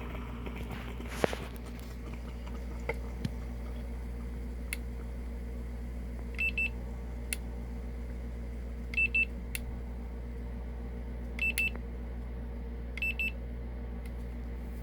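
Short electronic double beeps, four pairs a few seconds apart, over a steady low hum, with a few faint clicks between them.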